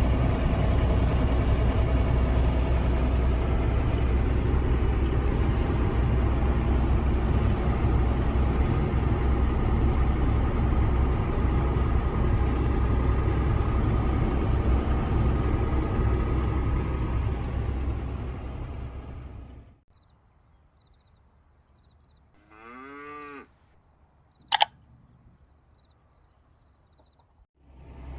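Cattle mooing over a heavy, steady low rumble; the sound fades out about two-thirds of the way through, leaving near silence broken by one faint moo and a single sharp click.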